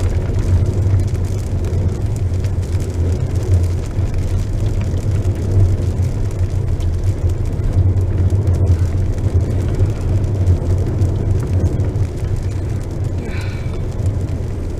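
Vehicle driving steadily on a dirt road: a constant low rumble of engine and tyres on gravel.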